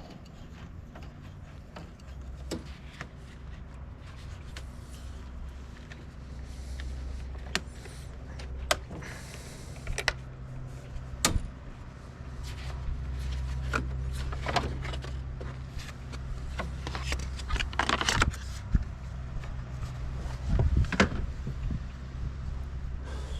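Hand tools clinking and knocking on metal as the front end of a compact tractor is worked on, in scattered sharp clicks over a steady low hum.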